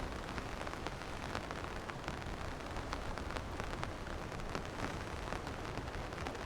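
Steady rain falling, a continuous hiss with many individual drops ticking.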